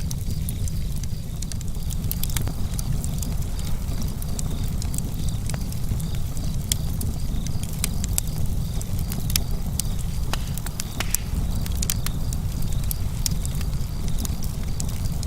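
Campfire burning with a steady low rumble and irregular sharp crackles and pops of burning wood.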